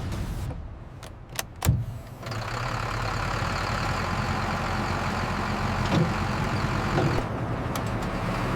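Large engine running steadily at idle, with two sharp clicks during a brief lull in the first two seconds.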